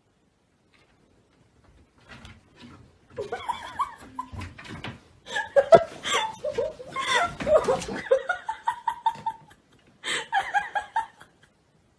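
A person laughing hard in repeated bursts, with one long high note partway through, after a couple of short knocks about two seconds in.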